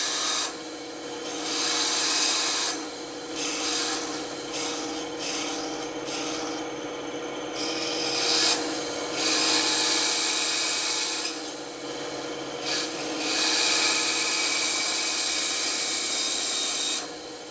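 Band saw running with a steady hum while its blade cuts through wood in several passes. Each pass brings a loud rasping hiss that eases off between cuts.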